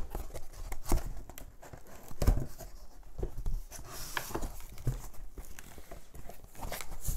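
Cardboard box being opened by hand and its packed contents handled: irregular knocks, scrapes and short rustles of cardboard and packaging.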